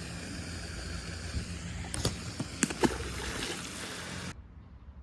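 Water splashing and sloshing around a small fishing boat, with a few sharp knocks or splashes about two to three seconds in. The sound cuts off abruptly near the end, leaving a much quieter background.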